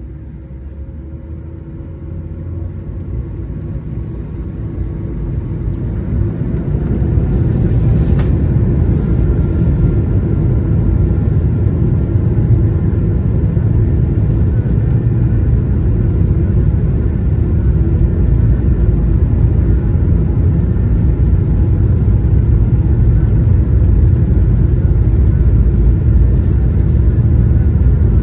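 Airbus A220-100's Pratt & Whitney PW1500G geared turbofan engines heard from inside the cabin during the takeoff roll. They grow louder over the first several seconds, then settle into a steady heavy rumble with an even tone running through it.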